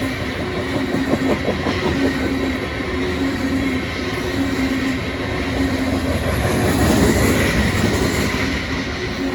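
Freight cars of an ethanol train rolling past: steady rumble and clatter of wheels on rail, with a tone that keeps breaking off and returning, and a swell in loudness about seven seconds in.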